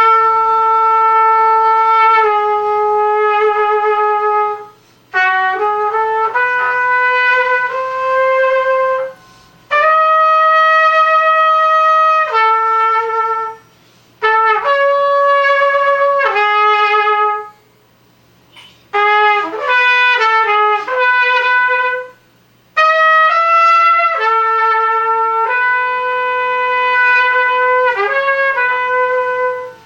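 Solo trumpet played unaccompanied: phrases of long held notes and quick runs of notes, with short breaks for breath between them.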